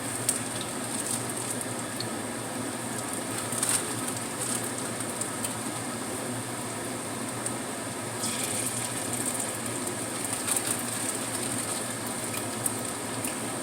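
Powder-coated tofu pieces frying in hot oil in a pan: a steady sizzle with scattered crackles and pops.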